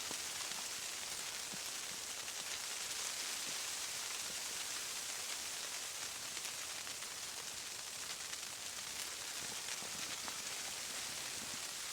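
Snow pattering steadily on tent fabric: an even hiss with faint scattered ticks.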